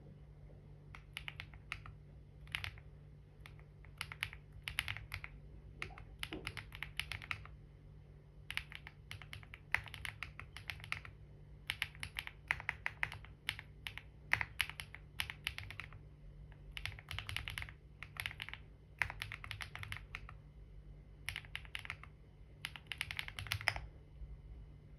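Typing on a computer keyboard in quick runs of keystrokes, broken by short pauses.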